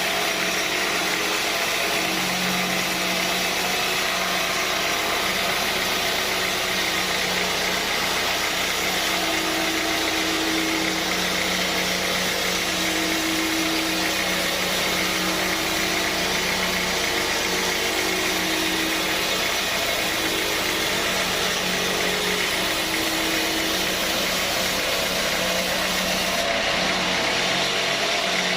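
Sawmill machinery running steadily: a continuous mechanical drone with a steady hum and a few held tones that swell and fade slightly through the middle.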